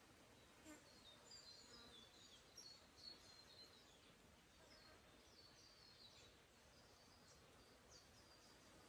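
Faint chirping and twittering of small forest birds: many short, high notes, thickest in the first few seconds and sparser after, over a soft steady background hiss.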